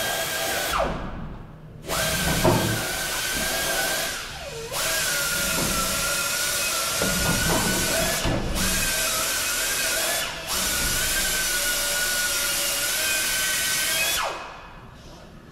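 A power tool's motor whines steadily in long runs. It is let off briefly four times, each time dropping in pitch as it slows before it speeds up again, and it stops near the end.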